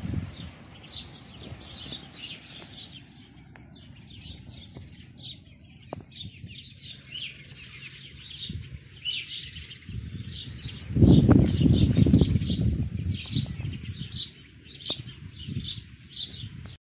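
Small birds chirping repeatedly: short, high calls coming several times a second. About eleven seconds in, a low rumble on the microphone rises for about two seconds and is the loudest sound.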